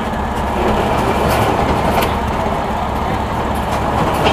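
Late model stock car engine running steadily at racing speed.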